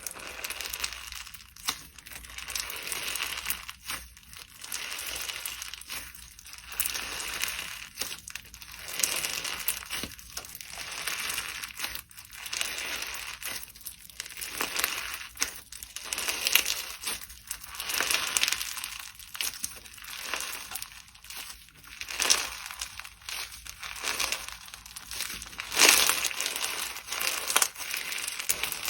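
Slime being squeezed and worked by hand, giving a crackling, crinkling sound in repeated swells about every one to two seconds.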